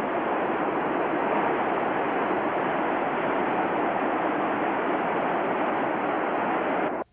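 Fast river water rushing steadily through rapids, cutting off suddenly near the end.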